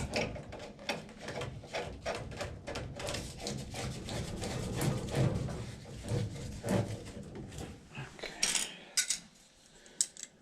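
Irregular clicks, knocks and rubbing of hard objects being handled, with a few sharp clicks in a quieter stretch near the end.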